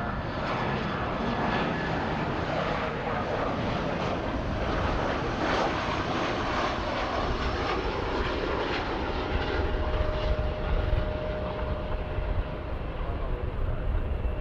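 Jet airliner engines running, a steady loud rush with a thin whine coming in about two-thirds of the way through while the low rumble grows stronger near the end.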